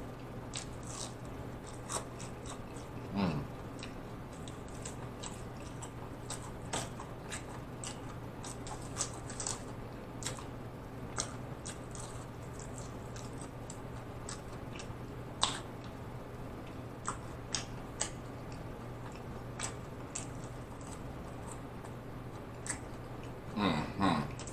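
Close-miked chewing of a marinara-dipped mozzarella stick: scattered soft, wet mouth clicks and smacks over a steady low hum, with a short voiced murmur about three seconds in and again near the end.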